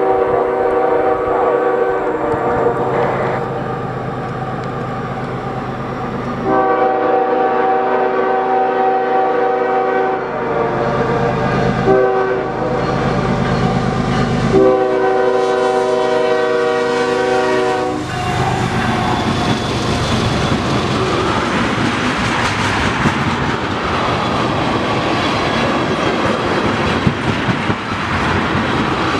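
Freight locomotive's multi-note air horn sounding the grade-crossing signal: two long blasts, a short one, then a long one. The train then rolls past with a steady rumble and wheels clattering over the rail joints.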